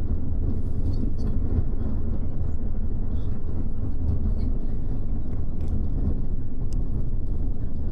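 Double-decker express bus driving, heard from inside the upper deck: a steady low drone of engine and road noise, with faint scattered ticks.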